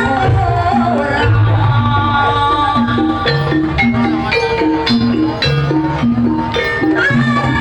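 Jaranan gamelan music: gong-chimes repeat a short pattern of notes in a steady rhythm over drumming, with a wavering melody line above.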